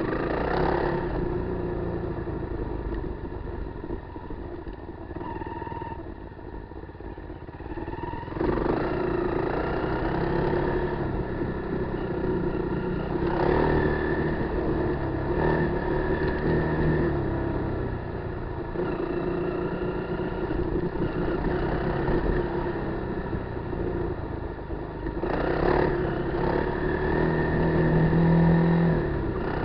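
Kawasaki KLR250 single-cylinder four-stroke motorcycle engine running while ridden, its pitch rising and falling with the throttle. It gets louder about eight seconds in, with a few brief knocks.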